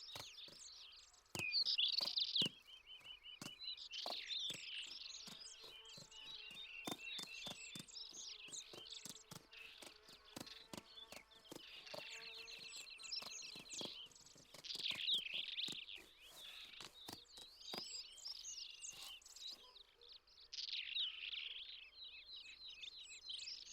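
Small birds chirping and trilling in overlapping phrases, with two stretches of fast buzzy trilling and frequent faint clicks.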